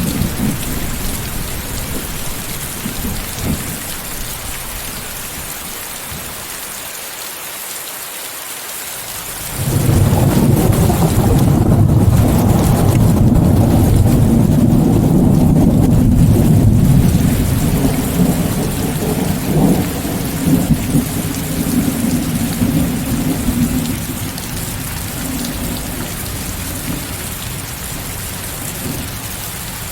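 Steady rain hissing, with a long peal of thunder that sets in suddenly about ten seconds in, rumbles deep for several seconds and then fades away.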